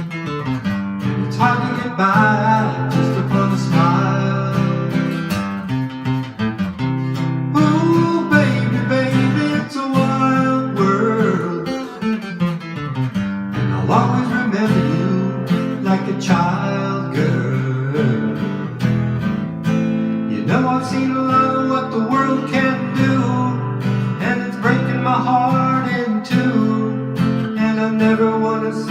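Acoustic guitar strummed as song accompaniment, with a solo singing voice over it.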